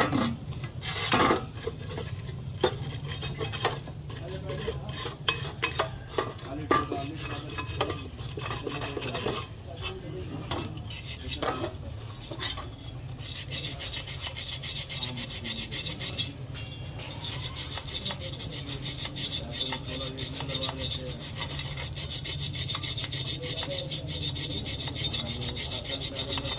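Hand work on a truck brake servo part: scattered knocks and clicks of parts being handled, then from about halfway a steady, rapid back-and-forth rasping of a part being filed or abraded, over a low steady hum.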